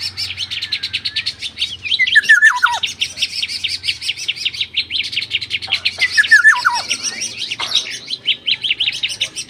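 Songbirds calling: a fast, unbroken run of sharp chirps, twice joined by a short series of notes stepping down in pitch.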